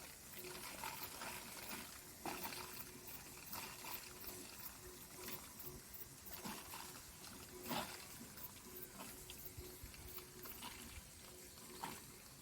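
Faint trickle of muddy stream water running through a water-tank filter housing, with scattered small drips and clicks.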